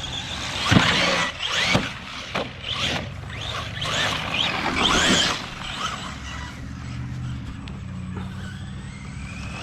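Electric RC truck motor whining up and down as the truck is driven, with repeated rising and falling whines and a few sharp knocks in the first two seconds.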